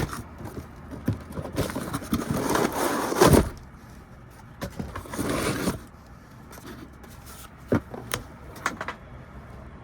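Scraping and rustling of parts being handled, in two longer swells, followed by a few sharp clicks near the end.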